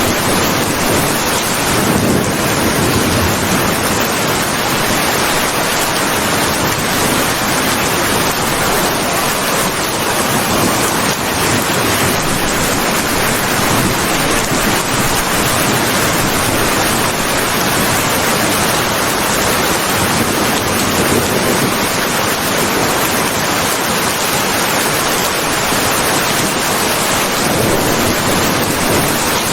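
Steady heavy rain falling, a dense, even hiss with no breaks.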